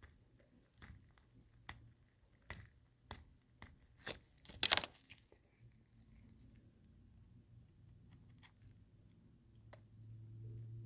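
Dissection on a preserved cat's thigh muscles, with scalpel, probe and gloved fingers: a run of short clicks and scrapes, the loudest a little before the middle, then a faint low hum that swells slightly near the end.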